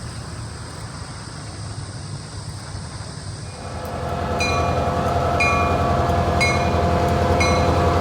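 Walt Disney World Railroad steam train running, heard from aboard. About halfway through it grows louder, with steady ringing tones over the rumble and a sharp stroke about once a second.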